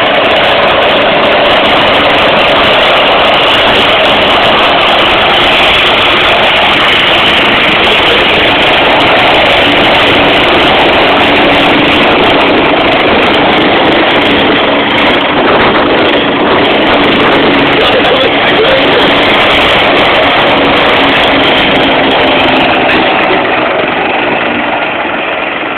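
Helicopter running close by: loud, steady rotor and engine noise that eases slightly near the end.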